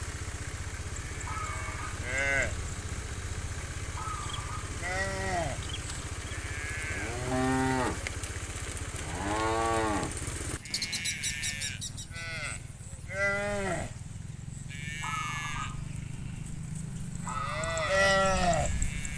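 Cattle mooing: a run of about eight long moos, each rising and then falling in pitch. A steady low hum under the first half cuts off suddenly about ten seconds in.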